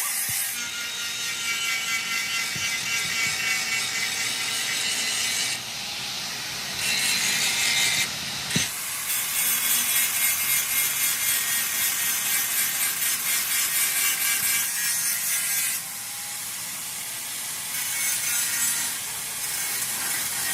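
Rhythmic rasping of hand-tool work on a truck part, like sawing, filing or wire-brushing, at about two to three strokes a second. The sound changes abruptly several times.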